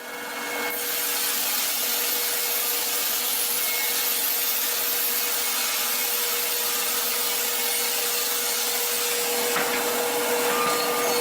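A wood-cutting machine sawing through wood: a steady, dense rasping noise with an even motor hum underneath, rising over the first second and then holding level.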